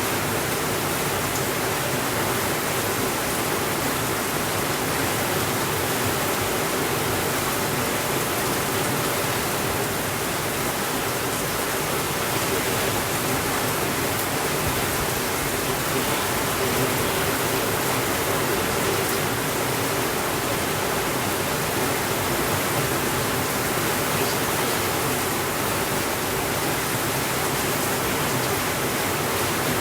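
Steady, even rainfall, a constant hiss with no thunder and no change in level.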